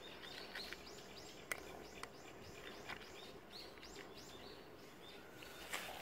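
Small birds chirping over and over, short high calls that slide downward, a few each second, over a faint steady outdoor hiss. Two sharp clicks come about one and a half and two seconds in.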